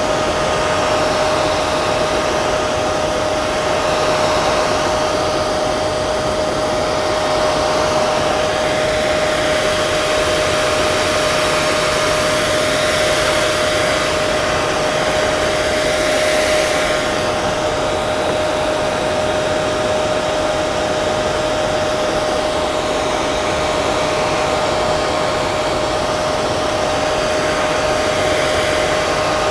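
Hair dryer running steadily: an even rush of blown air over a constant motor whine.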